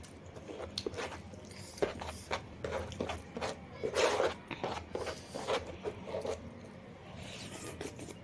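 A person eating noisily: irregular wet smacking and chewing sounds with short clicks, busiest about halfway through.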